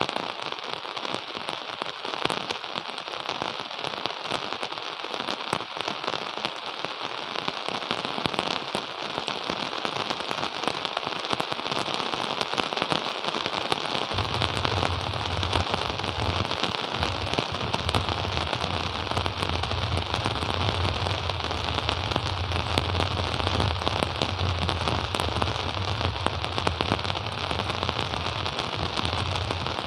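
Steady rain falling, a dense crackle of many small drop impacts. About halfway through, a low steady hum comes in under it and keeps going.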